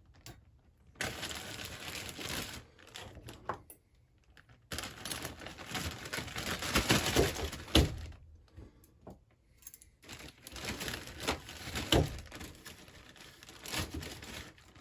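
Plastic supermarket carrier bag rustling and crinkling in several bursts as saw parts are bagged, with a few sharp knocks.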